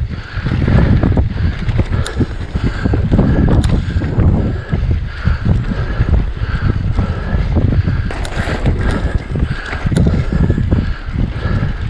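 Wind buffeting the microphone over the rumble and rattle of a mountain bike riding rough, rutted single track, with scattered sharp knocks.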